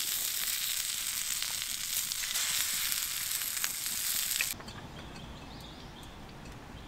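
Sausages and an egg sizzling in a riveted steel frying pan over a wood fire: a steady, dense hiss with small crackles and pops. The sizzle cuts off abruptly about four and a half seconds in, leaving a quiet background with a few faint clicks.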